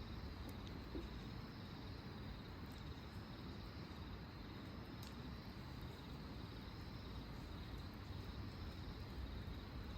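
Campfire burning with a few faint sharp crackles, over a steady high trilling of crickets.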